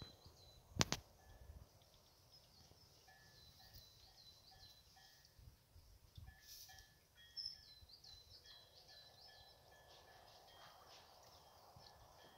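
Faint birdsong: small birds repeating short, high chirps and brief whistled notes over and over, with a sharp knock about a second in.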